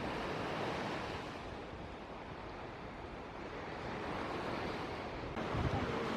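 Sea waves breaking and washing up the shore in a steady, swelling rush, with wind gusting on the microphone near the end.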